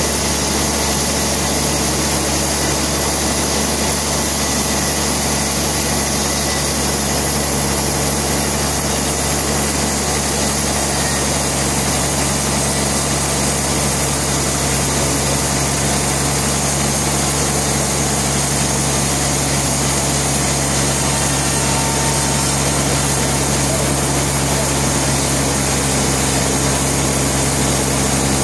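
Sawmill machinery running steadily: an even engine drone that holds the same pitch and level throughout.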